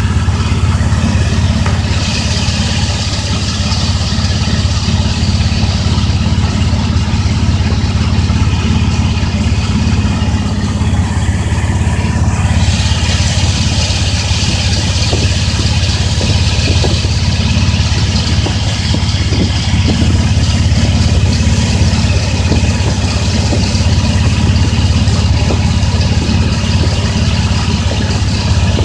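Pickup truck's engine idling steadily, heard close up.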